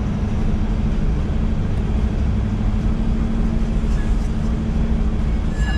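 C5 Corvette's V8 running at low speed, a steady low drone with a constant hum, heard from inside the car.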